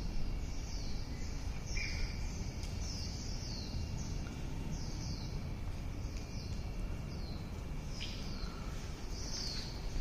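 Birds calling over and over: short high chirps that slide downward in pitch, one or two a second, over a steady low background rumble.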